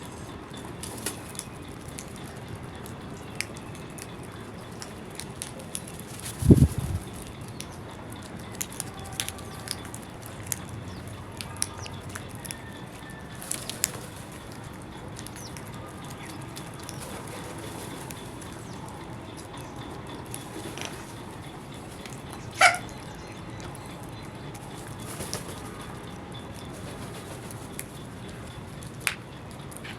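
Birds feeding, mainly crows: scattered short pecking taps over a steady background hiss. A loud low thump comes about six seconds in, and a short sharp call or squawk near the twenty-three-second mark.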